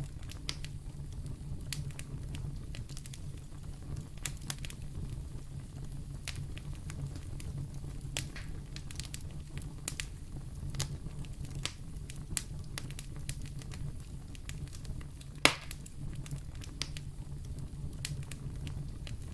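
Wood fire burning in a fireplace, crackling steadily over a low rumble of flame, with scattered snaps and one loud pop about three-quarters of the way through.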